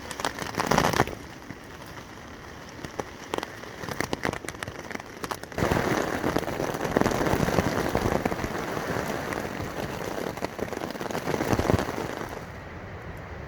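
Rain falling on a tent: separate drops ticking at first, then about five seconds in a heavier, steady downpour that eases off near the end.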